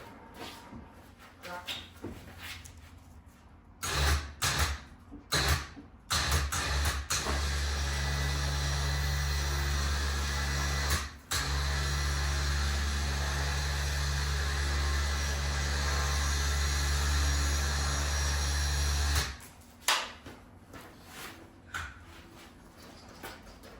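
Electric winch motor running in a few short bursts, then pulling steadily for about eleven seconds with one brief stop, before cutting off; light knocks and clicks come before and after it.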